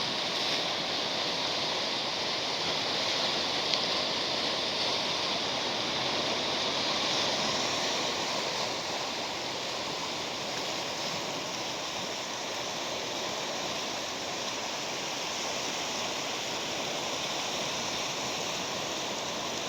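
Sea waves washing onto the shore: a continuous rush of surf, slightly louder in the first several seconds and then easing a little.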